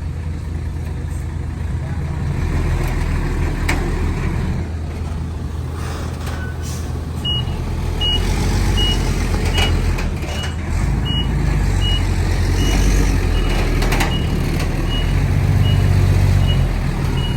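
Heavy diesel earthmoving machinery running steadily with a deep drone, with a few knocks. From about seven seconds in, a vehicle's reversing alarm beeps evenly, a little more than once a second, as a truck backs up.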